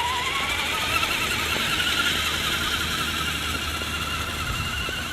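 An electric RC truck's motor and gears whining as it drives. The pitch rises as it speeds up around the start, then holds at speed with a quick waver.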